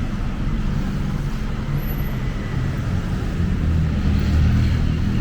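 City street traffic: a steady low rumble of vehicle engines, growing a little louder about four seconds in.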